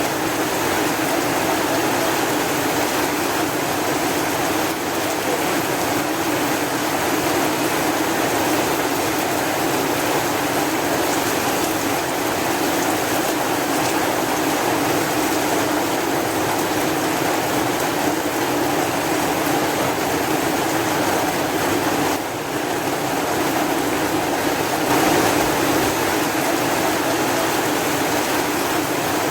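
Steady heavy rain, an even hiss.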